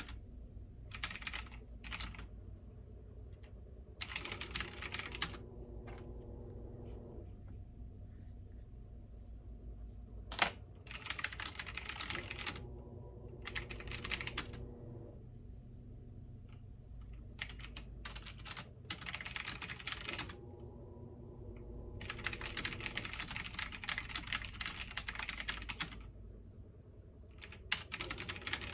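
Typing on a computer keyboard in several bursts of rapid keystrokes with pauses between them, over the steady low hum of a washing machine running.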